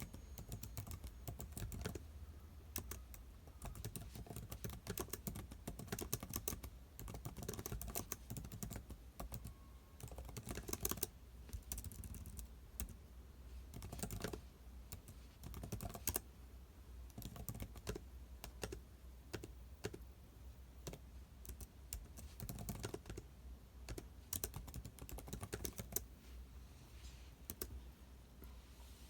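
Typing on a computer keyboard: irregular runs of keystrokes broken by short pauses, over a low steady hum.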